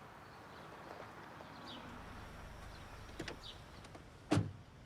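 Steady low background noise with a few faint chirps, then a single solid thump about four seconds in: a car door shutting.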